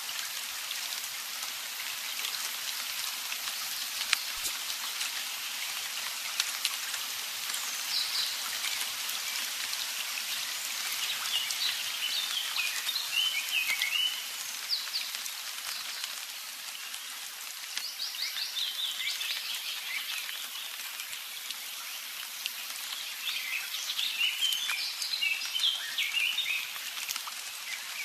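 Outdoor nature ambience: a steady high hiss throughout, with several bursts of quick, chirping calls, most clearly near the middle and towards the end.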